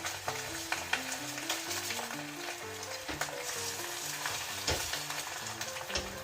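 Sizzling and crackling in a square iron frying pan on the heat, with small scattered clicks of stirring, over background music with a slow stepping melody.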